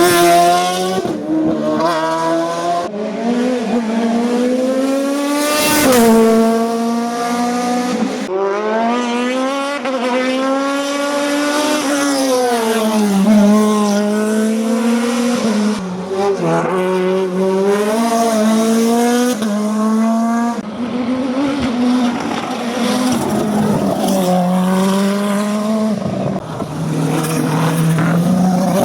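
Hillclimb race cars at full throttle, engines revving hard. The pitch climbs and drops again and again as the cars shift gear and lift off.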